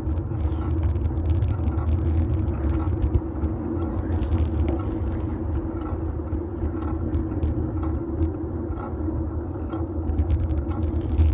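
Fixed-gear bike rolling over pavement, picked up through a metal handlebar phone mount: a steady low rumble of tyres and road vibration, with scattered small clicks and rattles from bumps.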